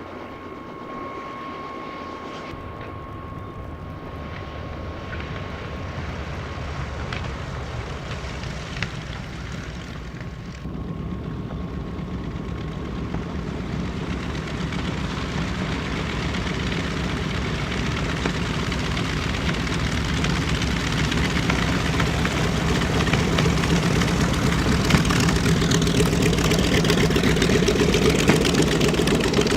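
Twin radial piston engines of a B-25 Mitchell bomber running, the propeller drone growing steadily louder as the plane comes closer.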